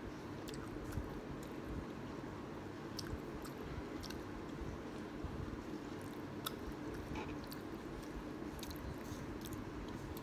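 A person chewing a mouthful of kimchi ramen close to the microphone, with scattered short mouth clicks, over a steady low hum.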